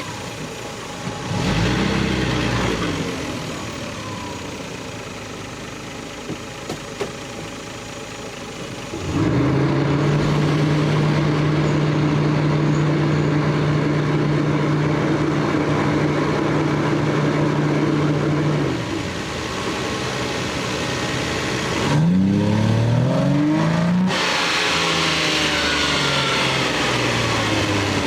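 Stock Lexus GS300's 2JZ inline-six running: idling with a brief rev about two seconds in, then held at a steady higher speed for about ten seconds before dropping back. A quick rev rises and falls again near the end.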